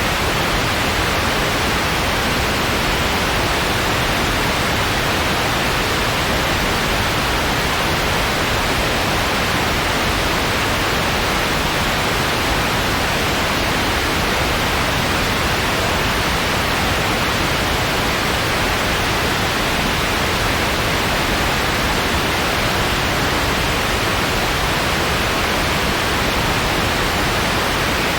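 Steady synthetic white noise: an even, unchanging hiss with most of its energy in the upper-middle range, used as a sleep and relaxation background.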